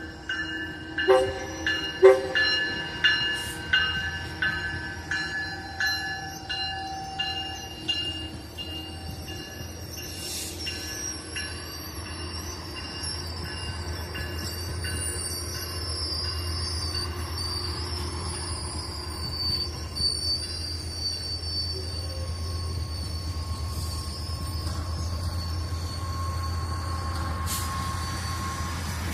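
A train moving through the station. For the first several seconds there are ringing strikes about once a second, typical of a locomotive bell. Then steel wheels squeal high on the rails over a low, steady locomotive rumble that slowly grows louder.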